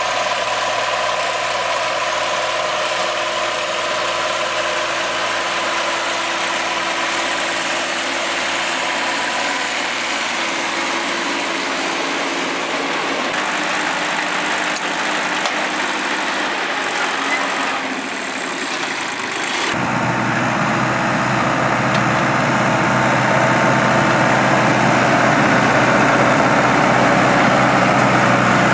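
Tractor engine and hay baler running steadily. About two-thirds of the way through, it cuts to another machine with a louder, deeper engine hum.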